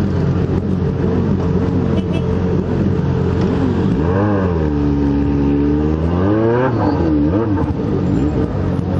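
Motorcycle engines running in a slow-moving pack; one engine, the Yamaha XJ6 N's inline-four, revs up about four seconds in, settles, then is blipped twice more, rising and falling in pitch.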